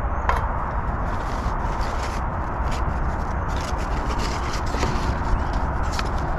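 Paint being stirred by hand in a can, the stirrer scraping and rubbing against the can in short repeated strokes, over a steady low rumble.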